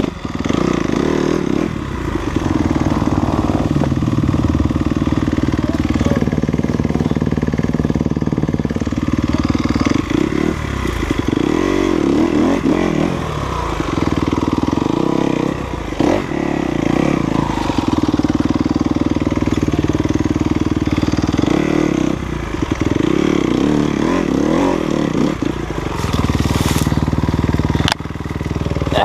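Off-road motorcycle engine held at high revs, with brief drops and swings in pitch several times, around 2, 11 to 13, 16, 23 to 25 and 28 seconds in.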